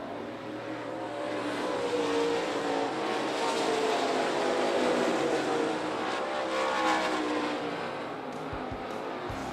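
Dirt late model race cars' V8 engines running hard as the field passes, the sound swelling as the cars go by about two seconds in and again around seven seconds.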